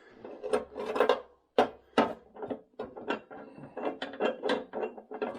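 Irregular metallic clicks and clanks of metal parts being handled and fitted together, two sharper knocks about a second and a half and two seconds in.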